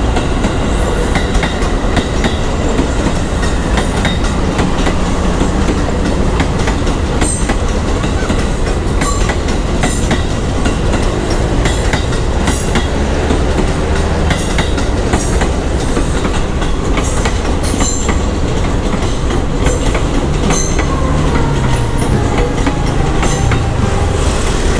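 KRL electric commuter train running past at close range: a steady rumble with wheels clacking irregularly over the rail joints.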